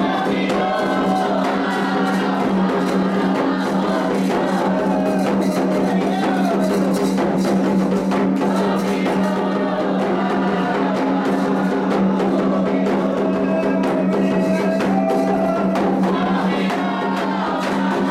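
Candomblé atabaque drums beating a steady rhythm while voices sing a melodic song for Oxum, under a steady low hum.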